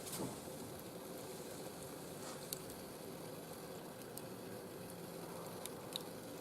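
Wood fire burning in a barbecue grill: a steady soft hiss with a few sharp crackles scattered through.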